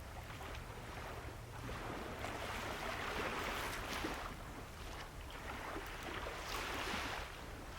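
Sea waves washing up the shore, swelling twice and falling back, with a few faint crackles from a wood bonfire.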